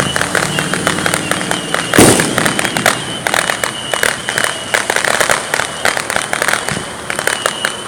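Fireworks going off: rapid crackling from many small pops throughout, with one loud boom about two seconds in.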